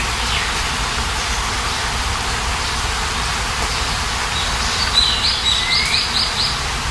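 Steady hiss of rain falling, with a bird calling over it: a short falling whistle near the start, then a quick run of about seven high repeated notes and a rising whistle from about five seconds in.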